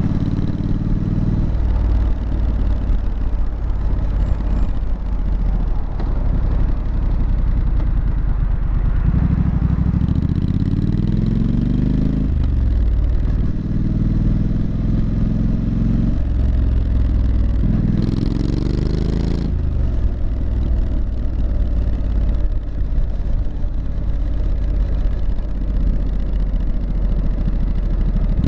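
Triumph Street Scrambler's 900 cc parallel-twin engine and exhaust under way: a steady low rumble, with the revs climbing and dropping away at gear changes about ten seconds in and again about two-thirds through.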